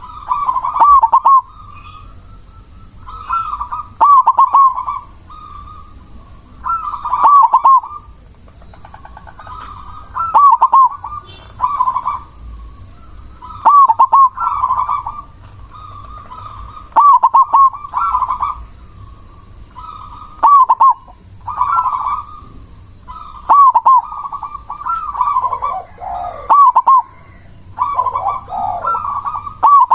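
Zebra dove (perkutut cemani) singing its cooing phrase over and over, about every three and a half seconds, nine phrases in all, each a quick run of rolling coos. In the last two phrases lower coos join in.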